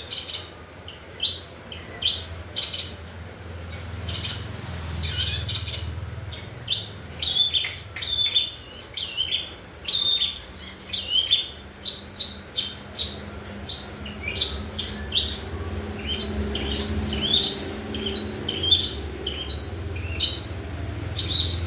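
Pet long-tailed shrike (pentet/cendet) calling: a long run of short, sharp chirps and a few harsh scratchy notes, coming quicker and more evenly in the second half.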